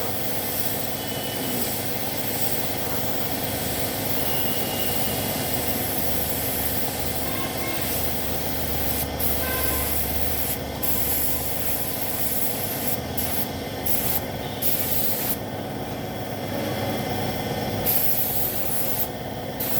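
Compressed-air paint spray gun hissing steadily as it sprays paint onto motorcycle body panels. The trigger is eased off briefly several times in the second half, over a steady hum.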